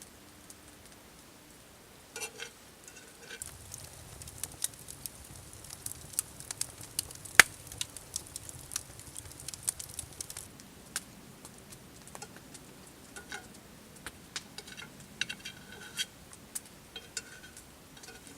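Campfire crackling: irregular sharp pops and snaps over a soft hiss, busiest in the middle, with one loud pop about seven seconds in.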